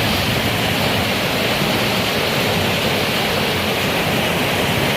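Heavy rain pouring down, a steady, even rushing hiss with no letup.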